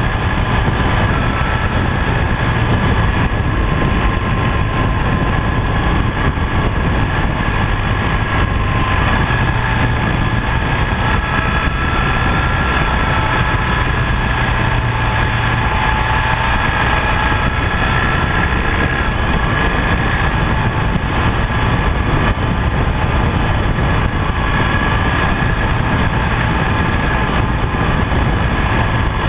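BMW R1200GS LC motorcycle's liquid-cooled boxer-twin engine running steadily while riding, mixed with a continuous rushing noise.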